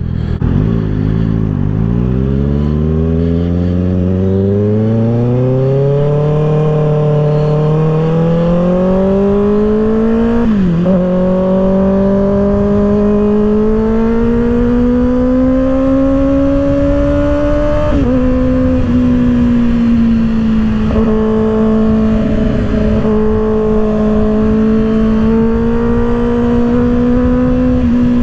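2024 Kawasaki ZX-6R inline-four with an M4 aftermarket exhaust, pulling under way. The revs climb for about ten seconds, dip briefly, climb slowly again, then drop about eighteen seconds in and hold steady at cruise. Wind rushes over the microphone throughout.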